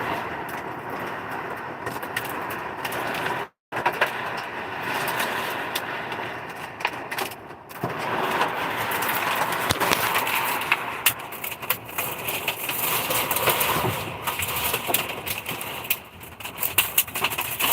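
Heavy rain and hail pelting a truck, a steady wash of rain with many sharp ticks of impacts that grow denser in the second half. The sound cuts out for a moment a few seconds in.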